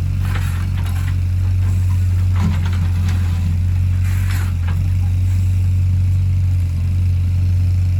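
Excavator's diesel engine running steadily with a constant low hum, with a few short clatters over it, about a third of a second in, around two and a half seconds in and around four seconds in.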